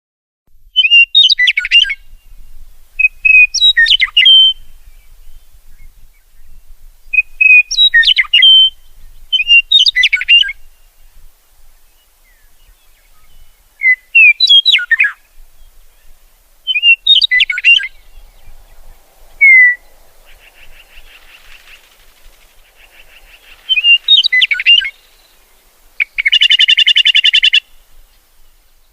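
A songbird singing short, clear phrases of about a second each, repeated every few seconds. Near the end comes a fast buzzy trill lasting about a second and a half.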